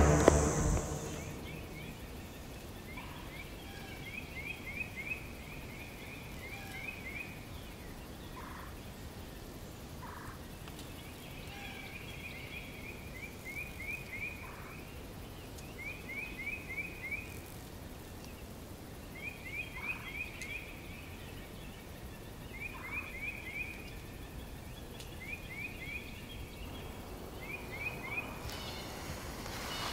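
Woodland ambience: a bird calling in short quick runs of three to five rising chirps, one run every couple of seconds, with a few single lower notes between, over a faint even background hiss.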